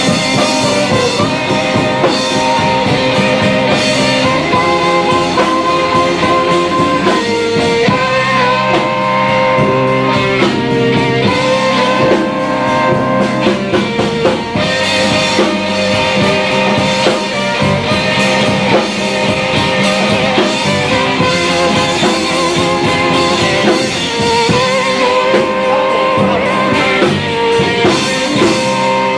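A live blues band playing a long stretch without vocals: guitar and a drum kit.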